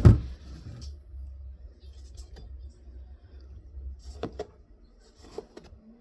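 A few scattered light clicks and clinks of a utensil against a mixing bowl while snow cream is being worked, over a low handling rumble.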